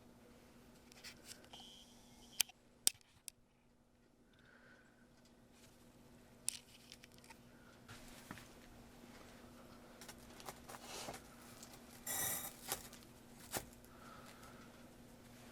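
Sparse sharp clicks and a short scraping rustle, with a faint steady hum underneath.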